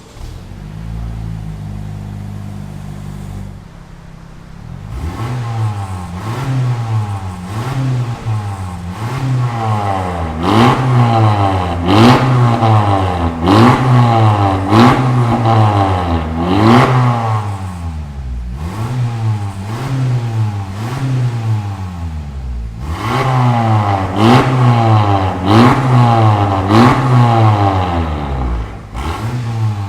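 Honda Civic FC's 1.5-litre turbocharged four-cylinder running through a full stainless-steel aftermarket exhaust with custom downpipe: a steady idle, then repeated throttle blips, the revs rising and falling about once a second in two runs with a short lull between.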